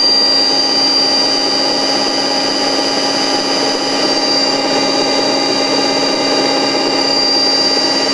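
Radial motor running steadily on a frequency converter, with a steady high whine and a lower hum over mechanical running noise.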